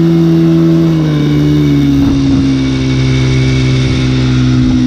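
Dirt bike engine running while riding, its revs dropping about a second in and then holding steady.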